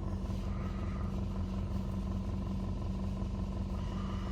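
Steady low mechanical hum of an automatic car wash's machinery, heard from inside the car's cabin, with an unchanging drone throughout.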